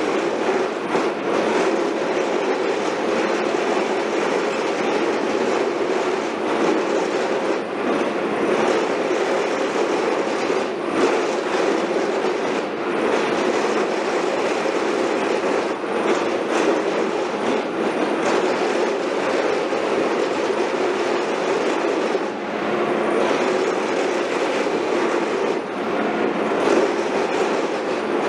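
Heavy construction machinery running steadily, a dense mechanical din with irregular metallic knocks.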